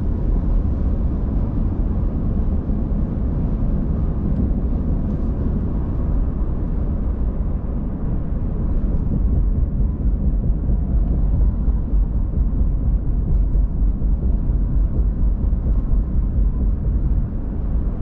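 Car driving on the road: a steady low rumble of tyres and engine.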